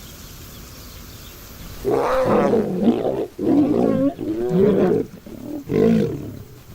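Lioness roaring: a run of about four loud, pitched roars starting about two seconds in, given by a frightened lioness trying to face down rival females.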